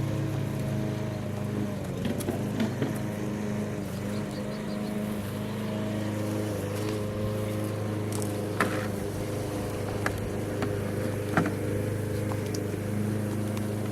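A motor running at a steady speed, with a few sharp knocks or clicks over it.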